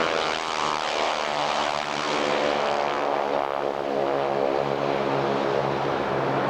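Propeller aircraft engine running steadily, its tone shifting slightly in pitch as the plane moves.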